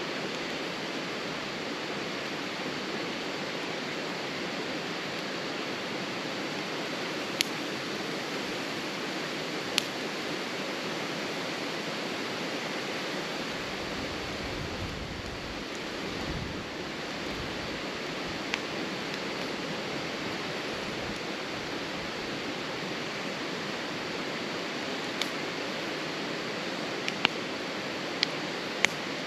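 Wood campfire burning: a steady hiss with a sharp crackling pop every few seconds, several coming close together near the end.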